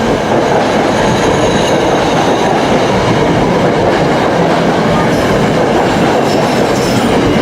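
A commuter train running through the station at high speed without stopping, its cars passing close by in a loud, steady rush of wheel and rail noise with some clickety-clack.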